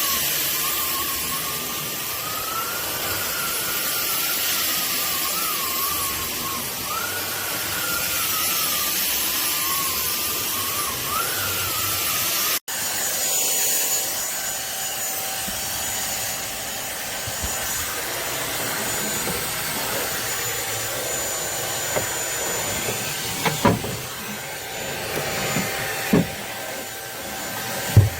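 SunSare cordless stick vacuum cleaner running, its motor whine wavering up and down in pitch over the first half. The sound breaks off for an instant about halfway, then runs on with a steadier whine, with a few knocks near the end.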